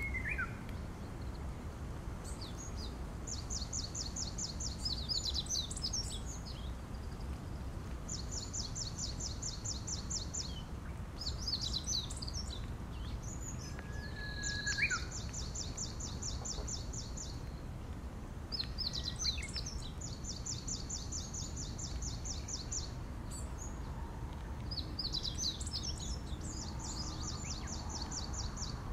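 A small songbird singing the same phrase over and over, about every five to six seconds: a quick jumble of high notes, then an even, rapid high trill lasting two to three seconds. The song sits over a steady low background rumble, and a short whistle sounds near the start and again about halfway.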